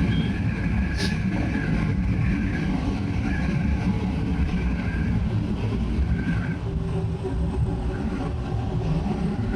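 Bajaj Pulsar 200 NS single-cylinder motorcycle engine running steadily at cruising speed, with road and wind rush over the onboard microphone. A brief sharp tick about a second in.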